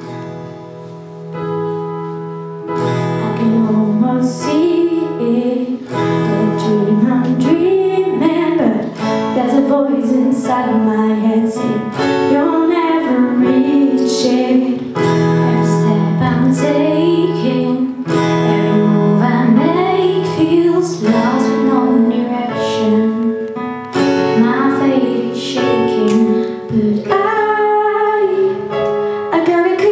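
Female voices singing a pop ballad over guitar, starting softly and growing fuller about three seconds in.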